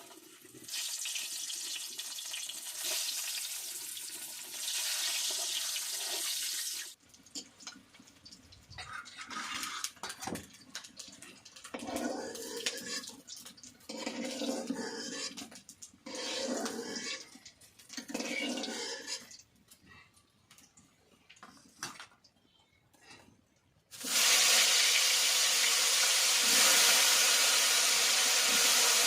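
Water pouring and splashing, with irregular stop-start handling noises. About 24 seconds in, a loud steady sizzle of frying starts suddenly.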